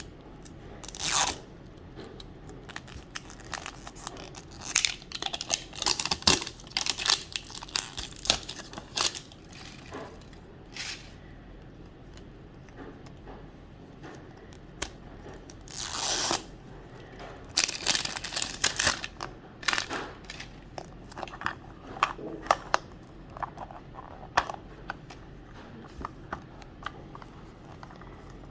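Plastic wrapping being torn and crinkled in irregular short bursts as a Mini Brands capsule ball is unwrapped and opened.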